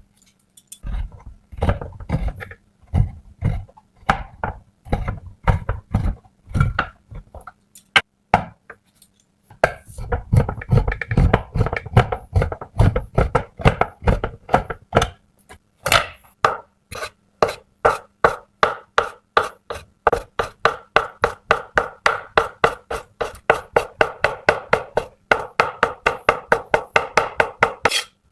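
Knife chopping on a cutting board. The strokes are irregular at first, pause briefly, then settle into a quick, even rhythm of about four a second.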